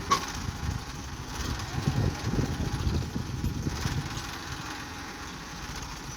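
Tractor engine running, with uneven low rumbling that grows louder for a moment about two seconds in. A sharp click comes right at the start.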